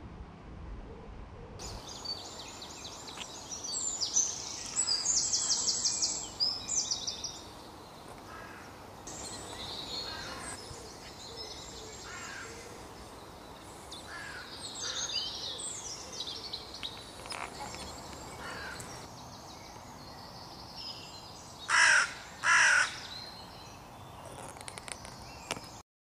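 Woodland songbirds singing and calling, with a rapid high song a few seconds in and two loud calls close together near the end.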